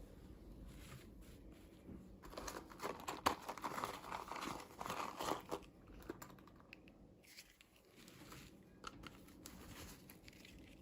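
Packaging being crinkled and torn open by hand. It is densest from about two to six seconds in, then lighter rustles follow.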